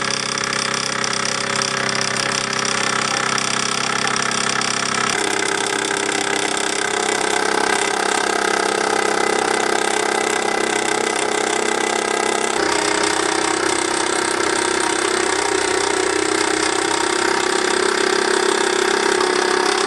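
Bowman M175 toy steam engine running steadily under live steam and driving its countershaft, with a small leak at the safety valve. The sound changes abruptly about five seconds in and again a little past halfway.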